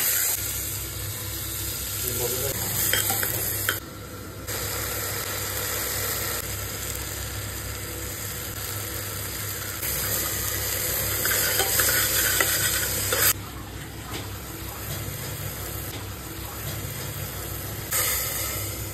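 Meat and onions sizzling as they fry in an open pressure cooker, with a steel spoon stirring and scraping the pot. Near the end, water is poured in.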